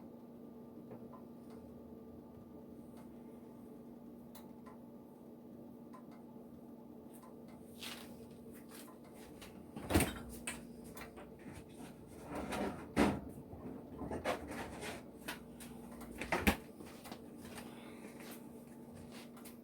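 Kitchen handling noises over a steady low hum: after a quiet start, a run of clicks and clunks with three louder knocks, like cupboards, a drawer or cookware being moved about.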